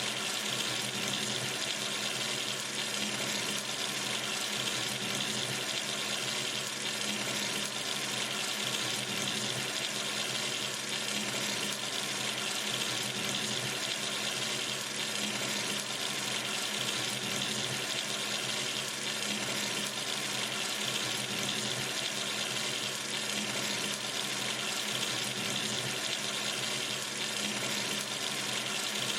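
Water running steadily from a sink tap into the basin, an even unchanging rush.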